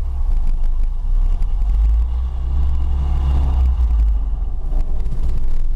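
Opel Rekord C 1900L's 1.9-litre four-cylinder engine running as the car drives, heard from inside the cabin as a steady low drone, the engine note swelling briefly in the middle.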